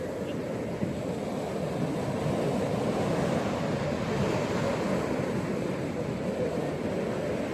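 Ocean surf washing on a beach: a steady low rush of breaking waves that swells slightly in the middle.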